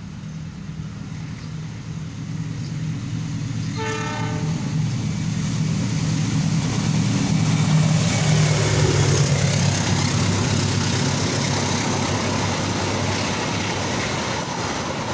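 Diesel locomotive hauling the Argo Cheribon passenger train, approaching and passing: its engine drone grows louder, with one short horn blast about four seconds in. It is followed by the steady rumble and clatter of the coaches' wheels on the rails.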